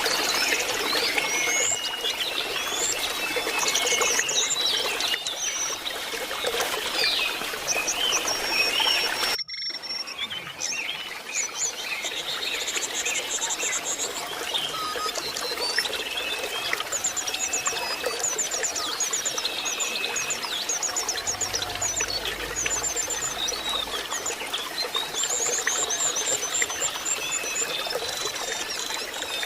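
Lesser shortwing singing: quick high trills and chirps over a trickling stream. The sound drops out for an instant about nine seconds in and resumes with less water noise behind the song.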